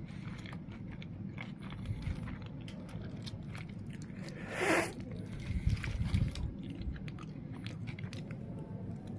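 Close-up biting and chewing of a wrap of bread, beef sticks, carrots and onions, with many small crunchy clicks. There is a short loud hiss a little before halfway and a few low bumps just after it.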